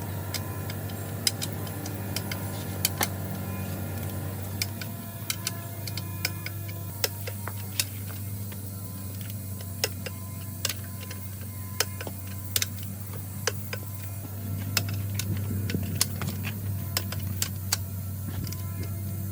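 Steady low hum with irregular sharp clicks and taps scattered throughout.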